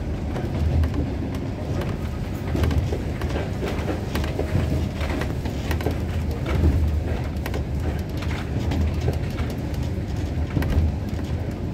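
Train running, heard from on board: a steady low rumble with frequent sharp clicks and rattles throughout.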